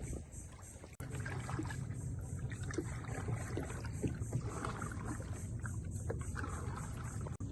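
Kayak paddling on calm water: soft paddle splashes and drips over a steady low background, quieter for about the first second.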